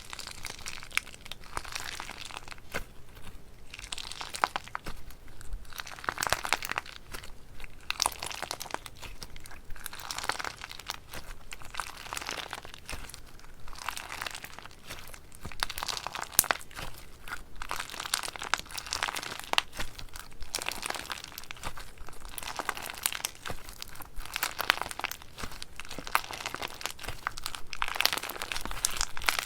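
Slime being squeezed and worked by hand, giving dense runs of small crackles and pops that swell in waves every second or two.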